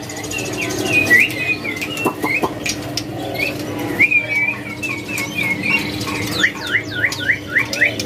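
Caged songbirds chirping: many short, quick calls overlapping throughout, with a run of repeated sweeping notes near the end, over a steady low hum.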